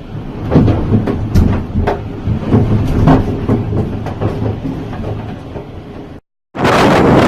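A loud low rumble with irregular knocks and rattles. After a short break about six seconds in, strong gale-force wind buffets the microphone with a loud, steady rush.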